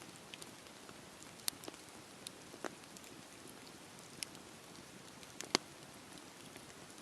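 Campfire burning: a steady soft hiss with scattered sharp crackles and pops from the wood, the loudest a little past halfway.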